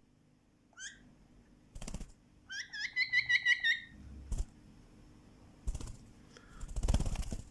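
Pet bird calling: a single chirp about a second in, then a fast run of about ten chirps. The chirps are mixed with short rustling and knocking noises, the loudest near the end.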